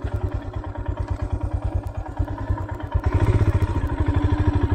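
Motorcycle engine running at low revs with a steady, even beat, getting louder about three seconds in as the throttle opens.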